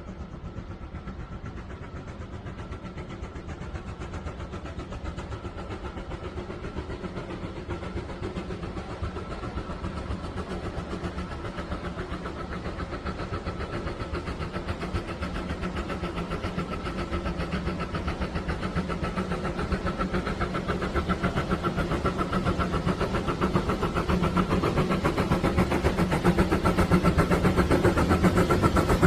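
Steam locomotive 99 1775-8, a Saxon narrow-gauge 2-10-2 tank engine, working with a fast, even beat that grows steadily louder.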